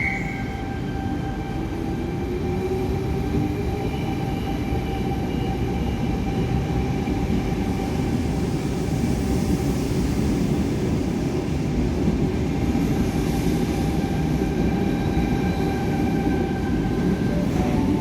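Electric passenger train running on the rails: a steady rumble with several constant motor tones, and a fainter tone rising in pitch over the first few seconds.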